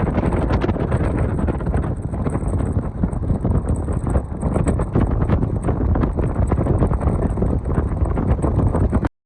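Strong wind buffeting the microphone: a loud, gusty rush with scattered crackles, cutting off abruptly near the end.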